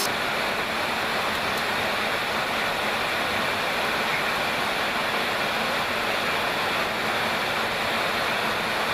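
Steady rushing noise of a jet aircraft in flight, airflow and engines blended into an even roar, cutting in suddenly at the start.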